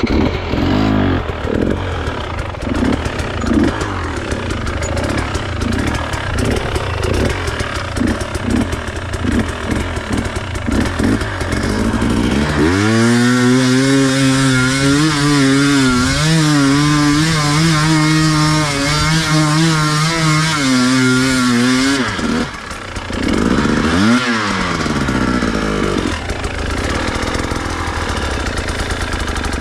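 Enduro dirt bike engine running at low revs in uneven pulses, then held at high revs for about ten seconds with the pitch wavering. It drops off, gives one quick rev that rises and falls, and settles back to low revs.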